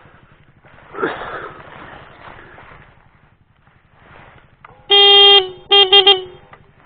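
Motorcycle horn honked: one half-second honk about five seconds in, then three short toots. Under it a single-cylinder dual-sport motorcycle engine is idling.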